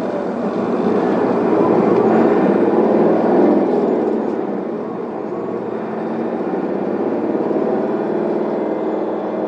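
Isuzu Erga city bus's diesel engine and road noise heard from inside the cabin while driving. It swells for a few seconds, then eases off about halfway through.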